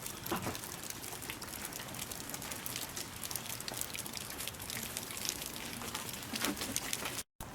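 Rain falling: a steady hiss dotted with many small, irregular drop ticks.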